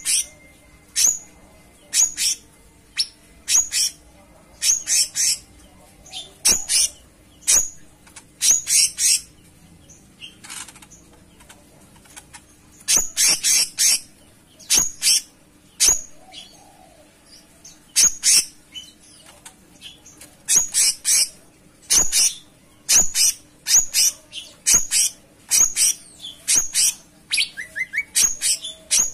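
A cucak cungkok songbird singing a lively, repeated song of short, sharp, high-pitched chirping notes in quick clusters, with brief pauses between phrases.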